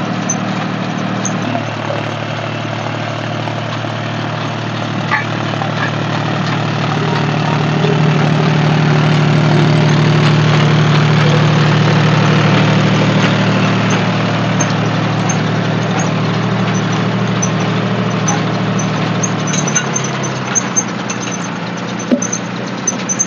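Diesel tractor engine running steadily. Its engine speed shifts about a second and a half in and again near the end, and it gets louder through the middle.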